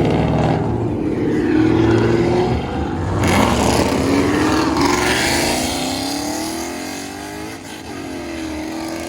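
A car engine revving hard as the car accelerates past, its pitch climbing and dropping through several rises, then fading away over the last few seconds.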